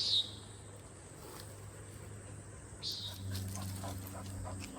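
Steady high-pitched insect drone, with two short high chirps, one right at the start and another about three seconds in.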